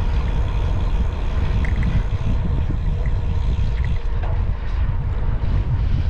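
Wind buffeting the microphone of a camera riding along on a moving bicycle: a steady, loud, fluttering low rumble.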